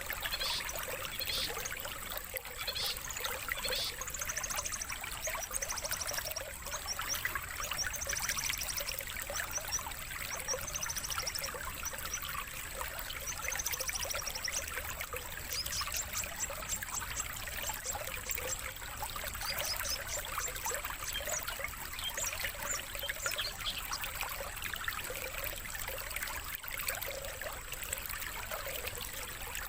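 Trickling stream water with songbird chirps and trills layered over it, as on a birdsong lure and master track. Runs of quick repeated chirps become more frequent about halfway through.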